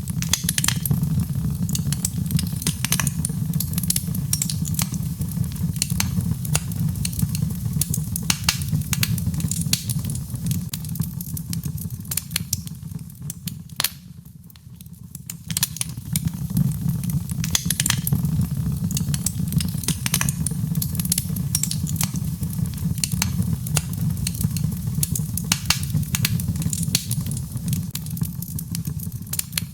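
Birch logs burning in a fireplace: dense crackling and sharp pops over a low, steady rumble of flame. The crackling thins out briefly about halfway through, then picks up again.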